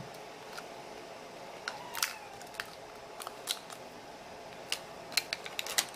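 Small, irregular clicks and taps of tweezers and a plastic pry tool working a coin-cell battery into its socket on a computer board: a few single clicks about two seconds in, then a quick cluster near the end.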